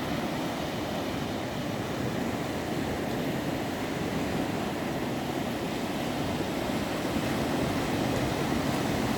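Sea waves and surf washing on a beach: a continuous, steady rush with little rise and fall.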